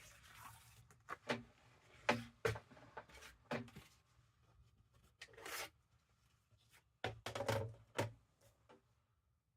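Paper and card being handled on a craft table: short bursts of rustling and crinkling, some of them brief sharp sounds, with a longer one about five seconds in. They die away near the end.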